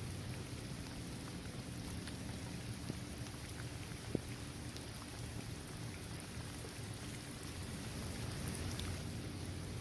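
Steady rain falling on a basketball court, trees and grass, with scattered drop ticks and a low steady rumble underneath. One sharper drop hit stands out about four seconds in.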